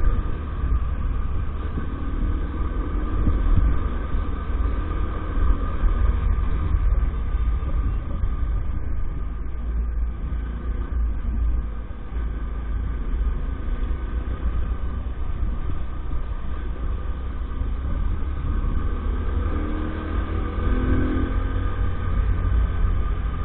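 Small 50cc motorbike engine running steadily while riding, under a heavy, constant low rumble; the engine pitch lifts briefly about twenty seconds in.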